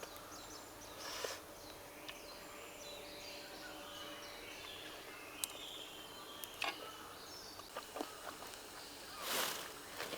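Forest ambience with several small birds chirping in short calls, a few sharp clicks, and a brief rustle about a second in and again near the end.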